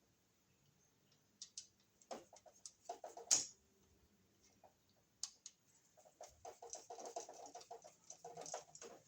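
Faint clicks and small scrapes of a bare ground wire loop being fitted around the green ground screw of a GFCI receptacle, the sharpest click about three seconds in. In the last few seconds comes a quick run of short chirping squeaks, typical of a screwdriver turning the terminal screw.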